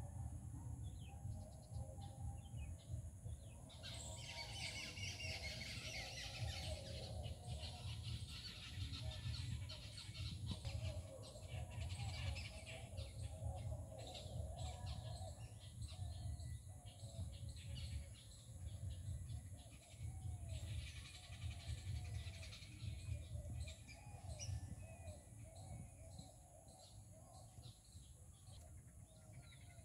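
Small birds chirping and twittering, busiest from about four seconds in to about twelve seconds and again briefly a little past twenty seconds, over a low rumble.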